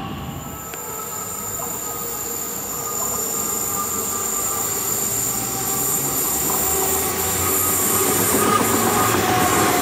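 Deutsche Bahn ICE 4 high-speed electric train approaching and passing, its rolling noise growing steadily louder, with a high steady whine over it.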